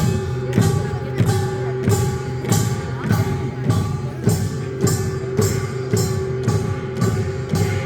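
Korean folk band music: evenly spaced percussion strikes, about one and a half a second, over a steady held tone.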